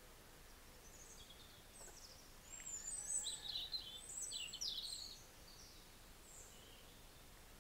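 Birds chirping: a cluster of short, high-pitched chirps and quick calls in the middle, over a faint steady background hiss.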